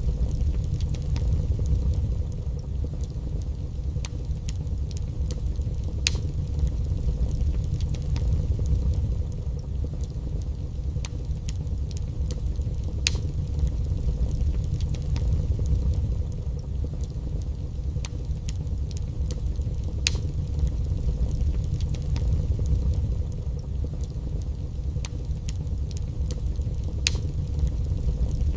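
Fireplace log fire burning: a steady low rumble with scattered sharp crackles and pops, the biggest pops recurring about every seven seconds.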